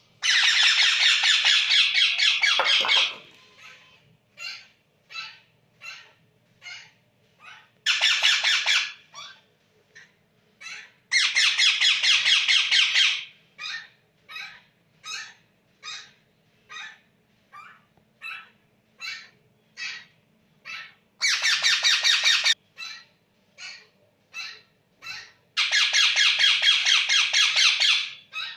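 Baby Indian ringneck parakeet giving harsh, pulsing food-begging squawks. There are five loud stretches of one to three seconds each, with short calls repeated between them, a little under two a second.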